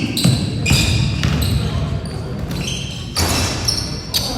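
Basketball play in a gym: sneakers squeak repeatedly on the hardwood court and the ball thuds as it bounces, over a steady hall murmur of voices.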